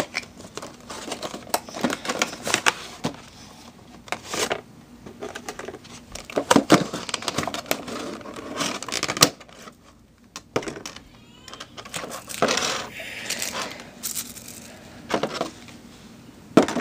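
A die-cast model airliner's box and packaging being opened and handled: scattered sharp clicks, taps and short rustling scrapes, with a brief lull about ten seconds in.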